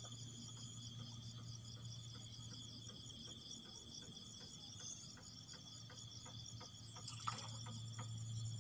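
Dense, steady insect chorus: continuous high, fast-pulsing chirring over a constant low hum. There are faint scattered ticks in the second half and a single sharp knock about seven seconds in.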